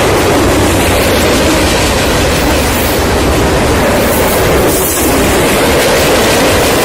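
Norfolk Southern freight train passing: its cars' steel wheels rolling over the rails in a loud, steady rumble with a clickety-clack.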